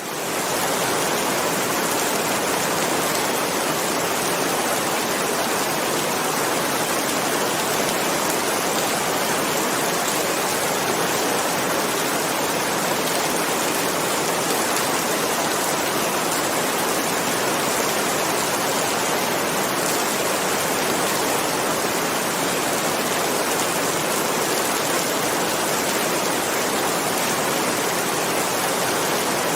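Heavy rain falling steadily, an even unbroken hiss with no thunder, rising to full level in the first moment.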